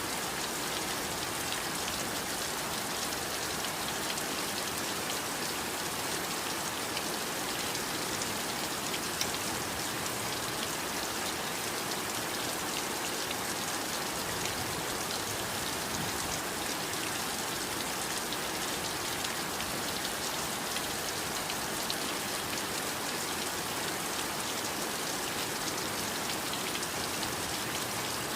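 Heavy rain falling steadily: a dense, even hiss of rainfall with a fine patter of individual drops.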